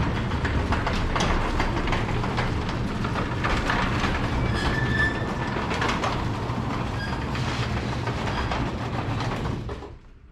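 Harley-Davidson Road Glide Limited's Milwaukee-Eight 114 V-twin running at riding speed, with wind noise on the microphone and many short clicks and rattles. The sound cuts off suddenly near the end.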